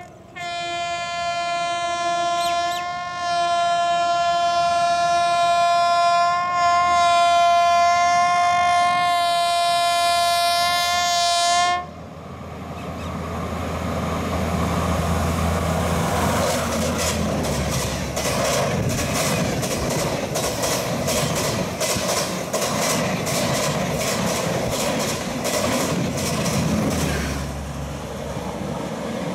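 Indian Railways electric locomotive's horn blowing one long blast of about twelve seconds, dipping briefly about three seconds in and then cutting off abruptly. A train then passes at speed: a steady rumble with a rapid clatter of wheels over the rail joints, easing near the end.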